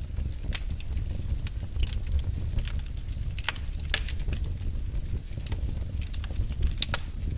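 Wood fire in a fireplace crackling: frequent sharp pops and snaps over a steady low rumble of the burning fire, with the loudest pop about four seconds in.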